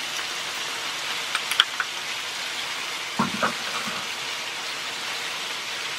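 Snake gourd and vegetables sizzling steadily in oil in a wok, with a few light clicks about a second and a half in.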